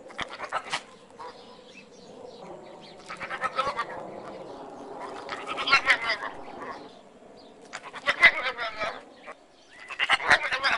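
A series of short, wavering animal cries, about five of them a couple of seconds apart, with a softer steady sound between them.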